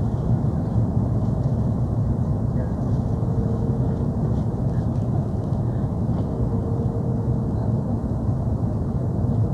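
Steady low rumble of cabin noise inside an Airbus A330-300 airliner: engine and airflow noise, with no sudden knocks or changes.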